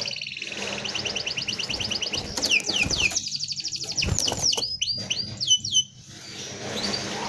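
Domestic canary singing a dense rolling trill of rapid repeated high notes, which turns about two seconds in into a run of quick downward-sliding whistles. The song breaks briefly near the end, then resumes.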